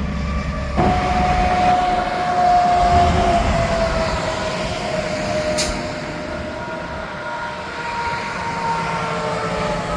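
Heavy highway traffic: trucks passing on the interstate, their tyre and engine drone carrying a whine that slowly falls in pitch as they go by.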